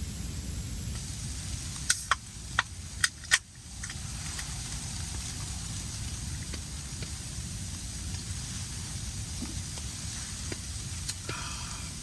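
Titanium tent wood stove burning with a steady low rumble and hiss, broken by five sharp clicks or cracks between about two and three and a half seconds in.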